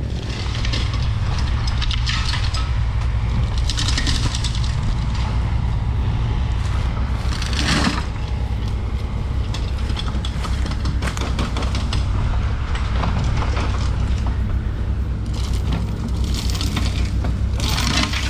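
Tractor engine running under steady load, with the crackle and scrape of cut tree branches being dragged along the ground. Several louder snapping crackles come about four seconds in, near eight seconds and near the end.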